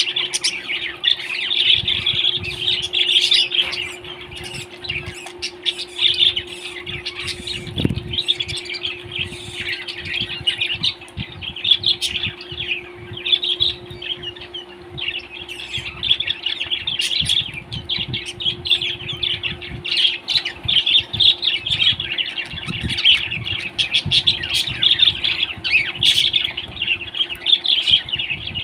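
Pet parrot chirping and squawking continuously in quick, dense calls, over a steady low hum.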